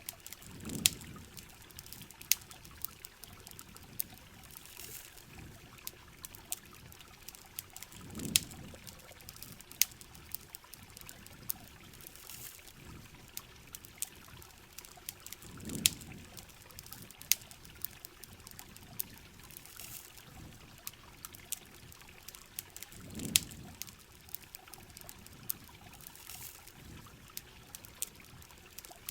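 Heavy rain pouring and trickling, mixed with a campfire's sharp crackles and pops. A low rumbling swell comes back about every seven to eight seconds.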